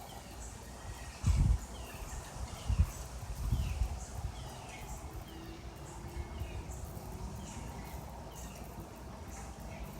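A bird repeating a short, falling whistled note just under once a second. A few loud low thumps sound about a second and a half in and again around three to four seconds.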